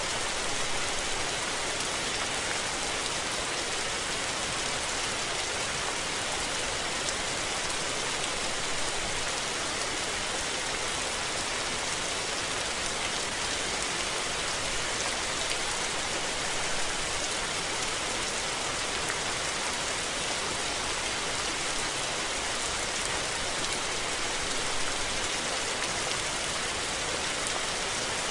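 Steady rain falling, an even hiss of many drops landing on surfaces.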